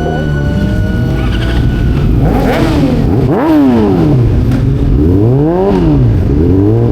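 Yamaha R6 motorcycle's inline-four engine revving up and falling back twice, each rise climbing quickly before dropping off.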